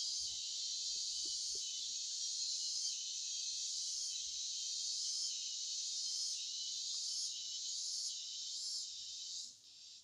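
Dense, steady chorus of insects such as crickets or cicadas, a high-pitched shrill drone that drops away sharply about nine and a half seconds in.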